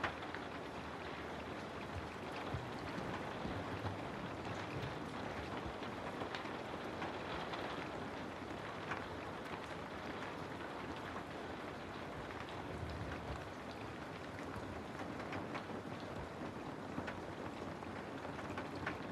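Steady rain falling on a surface, an even patter of drops with occasional sharper drips, used as white noise.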